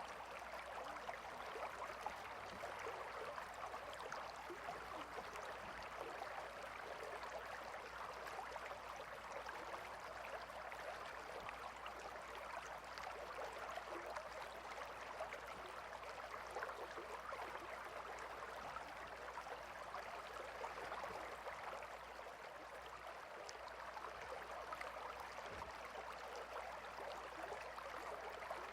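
Gentle river flowing: a steady wash of running water with fine babbling and splashing detail, unchanging throughout.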